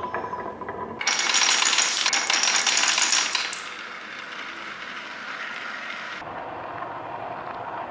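Many small hard pieces clattering along a track, a dense run of rapid clicks loudest from about one to three and a half seconds in, then settling into a quieter continuous rattle: marbles rolling down a marble run.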